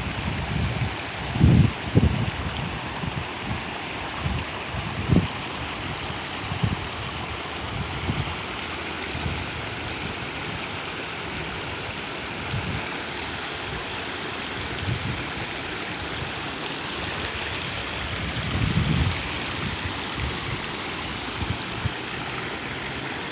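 Steady rushing of rain and running rainwater, with a few short low thuds, mostly in the first few seconds and again near the end.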